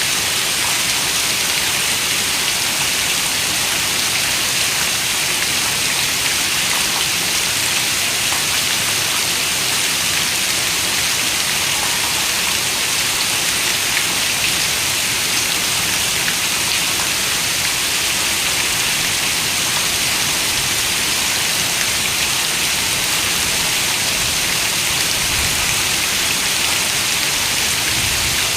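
Steady rain falling: an even, unbroken hiss of many raindrops that does not let up or change.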